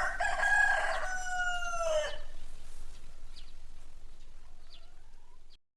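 Rooster crowing once, one long call of about two seconds that drops in pitch at its end, followed by a few faint short chirps before the recording cuts off.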